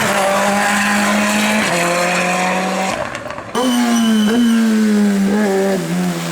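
Race car engine at high revs accelerating hard, rising in pitch and shifting up about a second and a half in. It drops out briefly around three seconds, then comes back sharply, its pitch swinging up and down through further gear changes.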